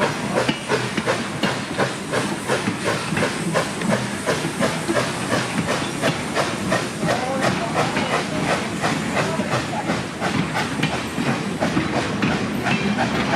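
Baldwin 4-4-0 steam locomotive running with its train, steam hissing under a steady rhythm of about four beats a second.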